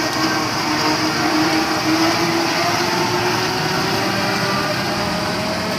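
Heavy coal truck's engine and drivetrain running under load, with a steady whine that rises slowly in pitch.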